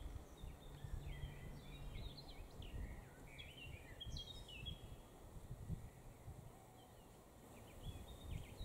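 Faint outdoor ambience: small birds chirping in the background, busiest in the first half and again near the end, over low uneven background noise.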